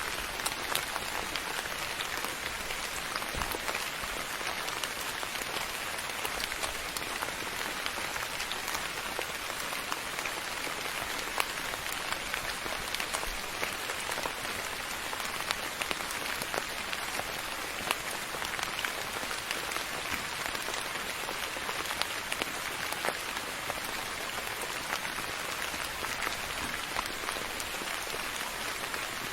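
Steady rain falling on a surface, an even hiss dotted with many small close drop ticks.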